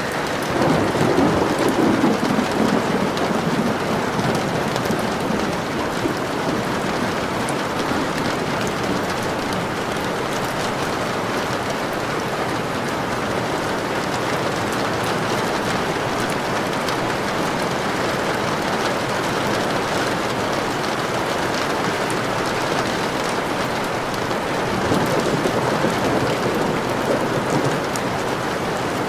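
Steady rain falling, with low rumbles of thunder about a second in and again near the end.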